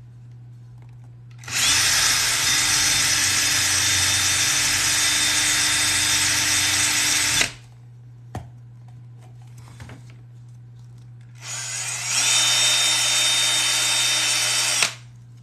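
Electric drill boring rivet holes through thick, stiff leather: two steady runs of several seconds each, the first longer, each starting up and cutting off abruptly, with a short click in the pause between them.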